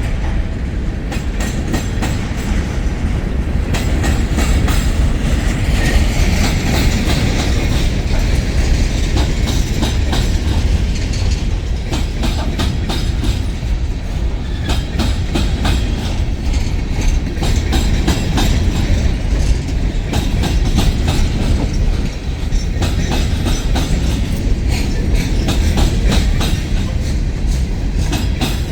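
Freight cars of a loaded stone train rolling past, a steady rumble with the wheels clacking rhythmically over the rail joints.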